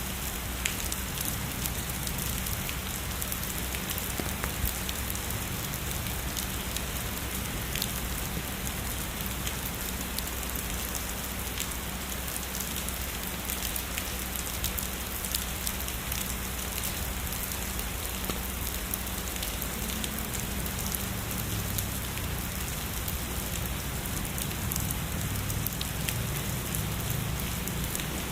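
Heavy rain falling steadily, a constant hiss with many sharp drop ticks scattered through it.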